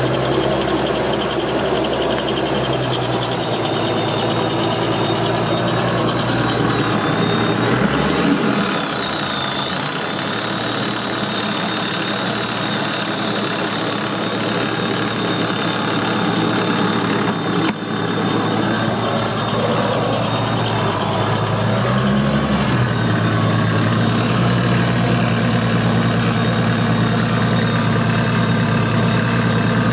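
Vehicle engine idling steadily with an odd noise, which the uploader takes for a rattling bearing. The engine note shifts briefly about eight seconds in and again about 22 seconds in.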